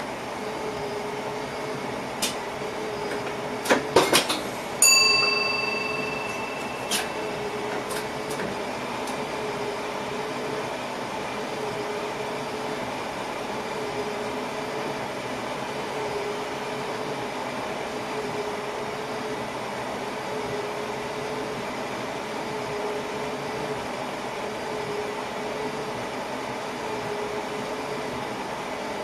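Steady noise inside a train driver's cab, with a hum that swells about every two seconds. A few sharp clicks come early on. About five seconds in, a single bell-like ding rings out and fades over a couple of seconds.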